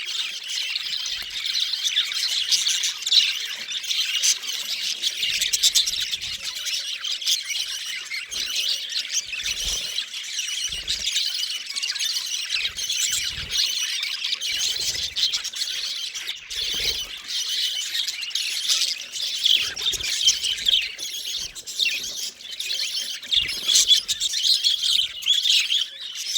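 A flock of budgerigars chattering and chirping without a break, with occasional soft low thuds.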